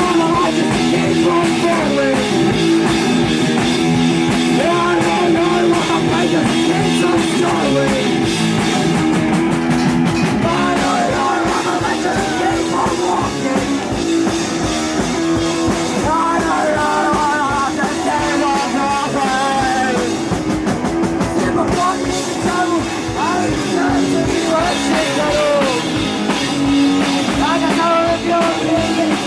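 A rock band playing live with guitar, bass and drums, and a voice singing over them.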